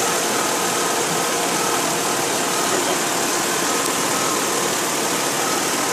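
2004 Ford Freestar's V6 engine idling steadily with a constant rushing noise, run so that coolant circulates and trapped air burps out through a funnel at the coolant fill.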